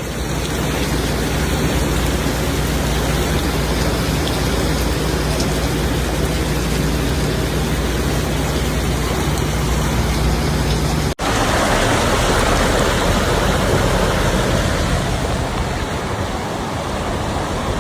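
Heavy rain and rushing floodwater, a steady loud hiss. A low hum runs under it at first. About eleven seconds in there is a sudden cut to a louder, brighter rush of water.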